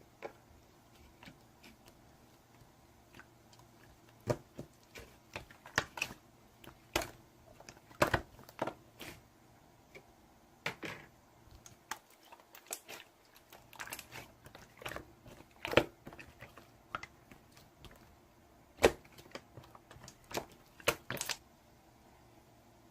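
A string of short, sharp clicks and taps at an irregular pace, some louder than others, with a pause of a second or two now and then.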